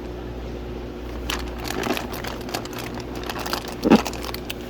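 Plastic fish-shipping bags crinkling and crackling as they are handled, with one dull thump near the end, over a steady low hum.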